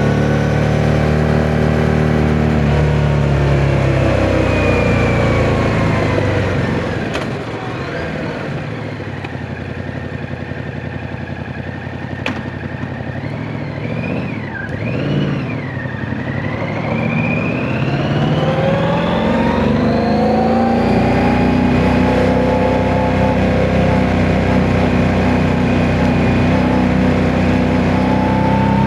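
Yamaha MT-07's parallel-twin engine under way: its pitch falls as it slows off the throttle, it runs quieter for about ten seconds, then it picks up again about two-thirds of the way through and holds a steady higher pitch. Wind noise hisses on the microphone throughout.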